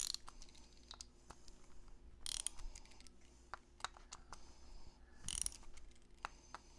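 Torque tool ratcheting and clicking as the ballhead's mounting screws are tightened to torque in a crisscross pattern. Scattered small clicks run throughout, with two louder rasping bursts, one a little over two seconds in and one about five seconds in.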